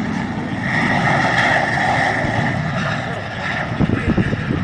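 Steady vehicle engine noise with a hum in the upper mid range, joined by uneven low rumbling buffets near the end.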